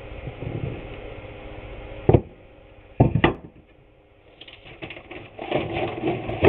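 Wooden trim boards being handled: a sharp knock about two seconds in and two more about a second later, then scraping and shuffling as the boards are moved.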